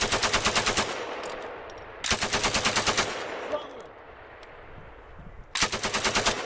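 M240 belt-fed 7.62 mm machine gun firing three short bursts of about a second each, with a rolling echo after each burst.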